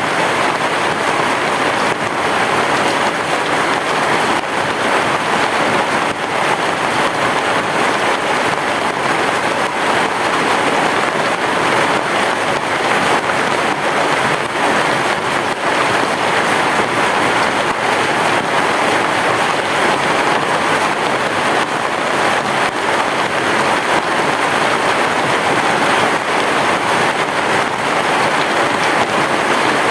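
Heavy rain falling steadily: a dense, even hiss with many small drop impacts and no thunder.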